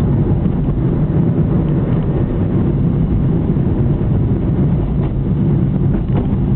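Car driving at a steady pace, its engine and tyre rumble heard from inside the cabin, with a couple of faint knocks about five and six seconds in.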